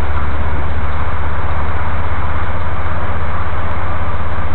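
Steady running noise of a passenger train heard inside the carriage: a strong low rumble under an even hiss, with no change in level.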